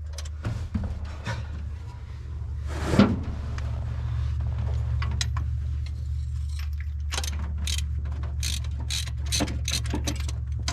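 Socket wrench working a threaded fitting loose on the engine, with irregular ratcheting clicks and scrapes that get busier in the second half, over a steady low hum.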